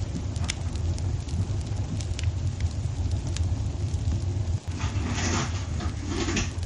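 Wood fire burning in a fireplace: a steady low rumble with scattered sharp crackles and pops, and a denser burst of crackling and hissing about five seconds in that lasts over a second.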